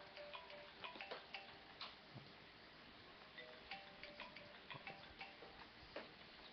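Near silence, with faint irregular ticks and clicks and a few brief faint tones.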